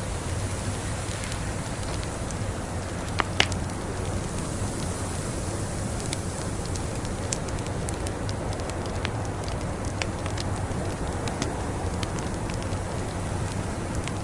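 Wood fire crackling in a fireplace: a steady hiss and low rumble with scattered sharp pops, two louder snaps a little over three seconds in.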